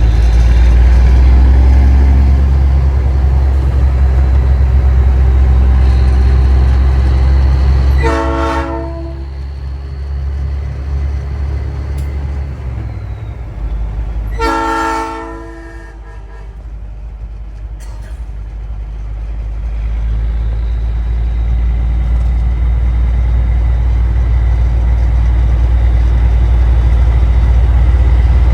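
Steady heavy low rumble of big-rig trucks running, with two short blasts of a Nathan Airchime P3 train horn, the first about eight seconds in and the second about six seconds later.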